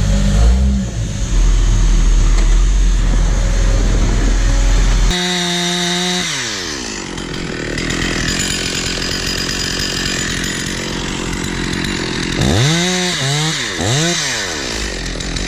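Stihl chainsaw engine running loud and steady, then its pitch falls away about five seconds in. Near the end it is revved up and dropped back three times in quick succession.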